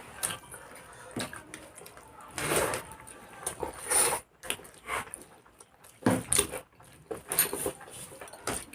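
Eating sounds of a rice-and-chicken meal eaten by hand: chewing and mouth noises with a few short knocks and scrapes on the plate, and a brief vocal sound or two.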